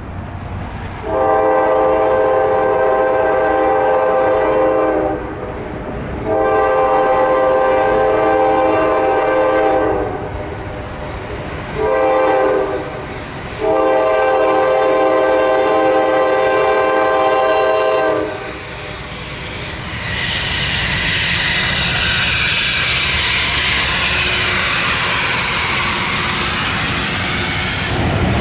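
Train horn sounding the grade-crossing pattern of two long blasts, a short one and a final long one, the signal of a train approaching a crossing. Then the train passes close by as a loud, steady rush of wheel and rail noise.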